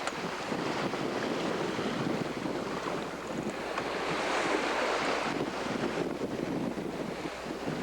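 Wind buffeting the microphone over the rush of open-ocean waves past a sailboat under way. The water's hiss swells louder about halfway through and falls away a second or so later.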